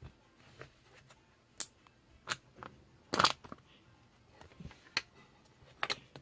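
Irregular sharp clicks and knocks, about half a dozen spread unevenly, with the loudest a short cluster a little past the middle.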